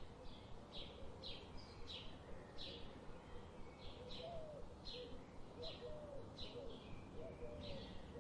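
A bird chirping over and over in an even rhythm, about one short high chirp every two-thirds of a second, with fainter low wavering notes beneath and a steady background hiss.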